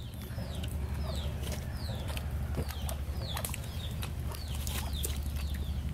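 Birds chirping in short, falling chirps that repeat many times, over a low steady hum.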